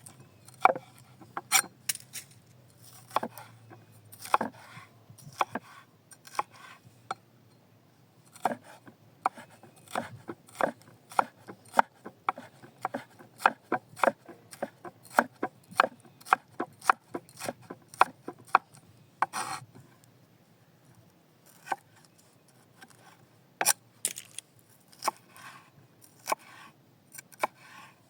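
Knife chopping food on a cutting board: a run of sharp, irregular cuts, closer together through the middle and sparser near the end.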